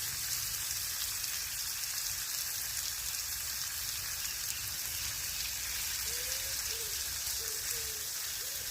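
Food frying in bacon grease in a pan: a steady sizzling hiss with fine crackles.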